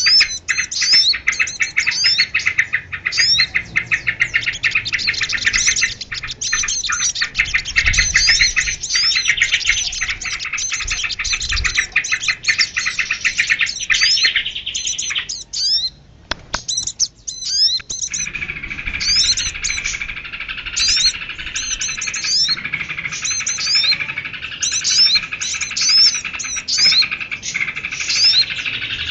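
Many small birds chirping and twittering at once, with rapid high calls and trills: a bird-lure call track. About halfway through the calls break off briefly, then a different mix of chirps and trills starts.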